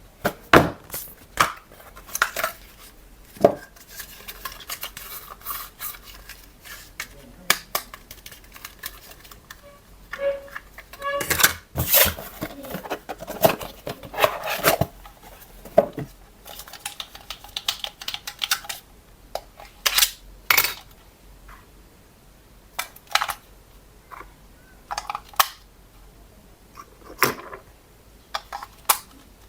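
Irregular clatter of small hard objects being handled: sharp clicks and knocks at uneven intervals, with a few brief faint tones a third of the way in.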